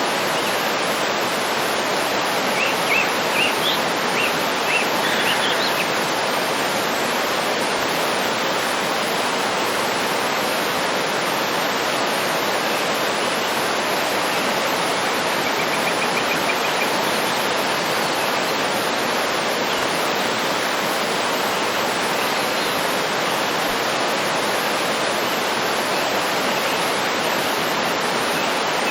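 Waterfall: a steady rush of falling water. A bird gives a few short, high chirps a few seconds in, and a faint quick trill about halfway through.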